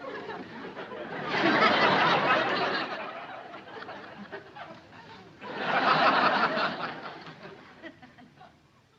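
Sitcom laugh track: audience laughter that swells about a second in, dies down, and swells again around five and a half seconds in.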